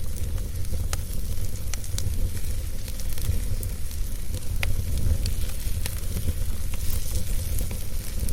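Wood fire burning in a fireplace: a steady low rumble and hiss with sharp crackles and pops at irregular intervals.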